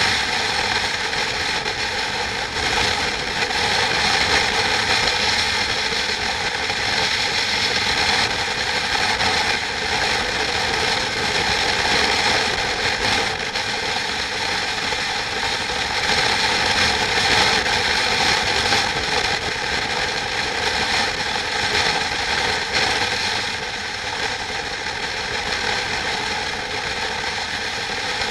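Steady, continuous mechanical noise that runs without a break.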